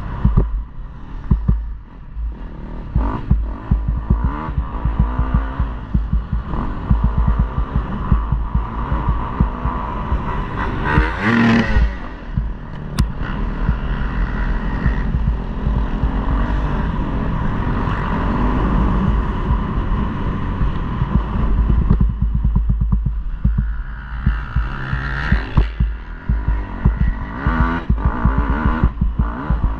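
KTM 250 motocross bike's engine running hard on the track, its pitch rising and falling as the throttle opens and closes, with a sharp rise and fall about eleven seconds in. Heavy low rumble and many sharp knocks run under it.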